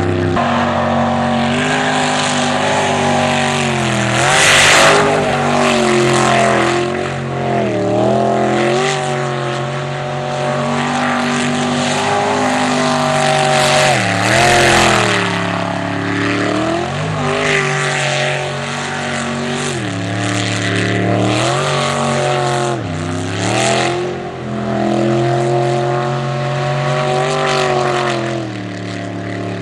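Jet sprint boat's engine running at high revs through a race course. The revs drop sharply and climb back again many times as the throttle is backed off and reapplied.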